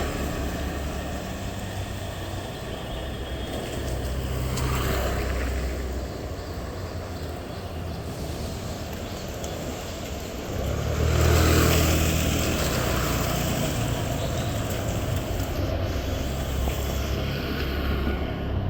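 Street traffic under a steady low rumble, with vehicles passing by, one about five seconds in and the loudest about eleven seconds in.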